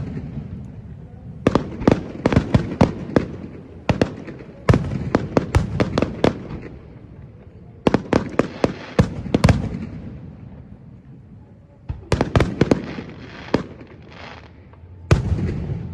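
A fireworks display going off in rapid volleys of sharp bangs, each volley a quick string of bursts over a low rumble, with lulls of a second or two between volleys.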